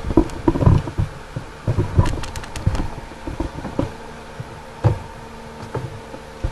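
Handling knocks, clicks and rubbing from a camera being panned on its stand, busiest in the first three seconds and sparser after, over a faint steady hum.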